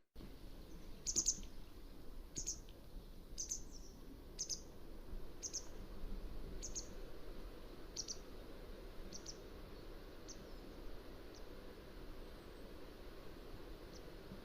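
Mountain wagtail calling: a series of short, sharp high notes about one a second, growing fainter after about ten seconds, over a steady low background hiss.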